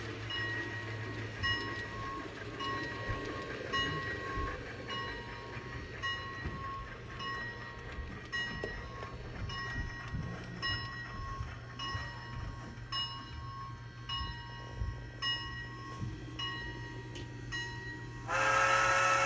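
Model railroad layout sound: a bell ringing steadily about twice a second over a low steady hum and light clicks of rolling wheels. A train horn sounds loudly near the end.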